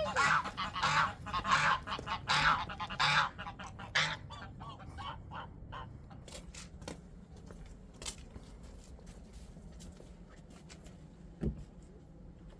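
Repeated loud, rough bird calls, about one every 0.7 s, for the first four seconds, then fading to faint scattered clicks with a single thump near the end.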